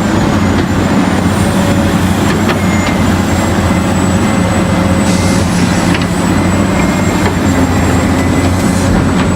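A vehicle engine running steadily at an even pace, with a faint high whine throughout.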